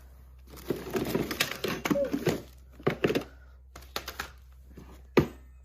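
Hands rummaging through a box of small parts while searching for a missing screw: a dense burst of rustling and clattering, then a few scattered clicks, and a single sharp knock about five seconds in.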